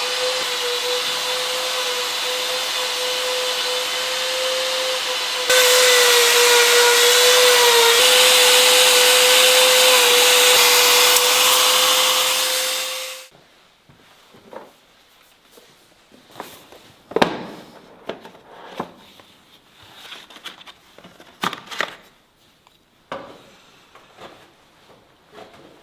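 A power tool running at a steady high speed against wood, louder from about five seconds in, and stopping about halfway. Then scattered light knocks and scrapes of wood being handled.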